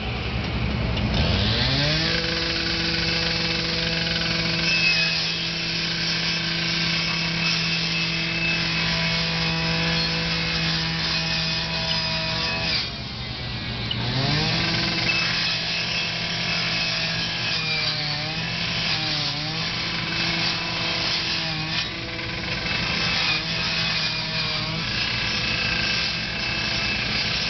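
K12 rescue saw, a two-stroke cut-off saw, cutting through a metal garage door. The engine revs up about a second in and holds high revs, drops briefly about halfway, then revs back up, its pitch wavering as the blade bites into the metal.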